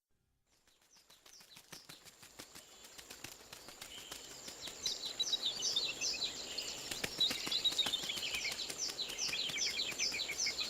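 Birds chirping in quick, repeated falling notes, with scattered faint clicks and a steady high whine, fading in gradually from silence.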